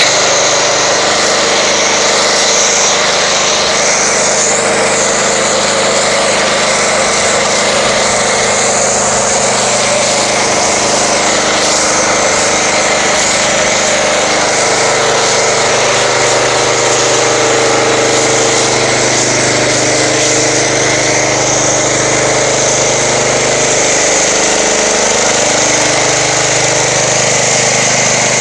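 Pressure washer running steadily while spraying car-wash foam through a foam cannon, a motor drone under a continuous hiss of spray. The motor's pitch shifts upward briefly near the end.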